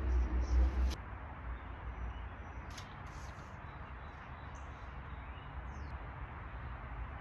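Steady background hiss with a low rumble that stops about a second in, a single click near the middle, and a couple of faint short bird chirps.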